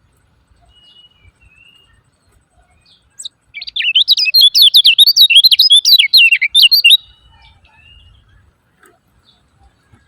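Kecial kuning, a white-eye, giving a fast, loud run of high chattering 'ciak ciak' notes for about three seconds, starting about three and a half seconds in, with faint short calls before and after.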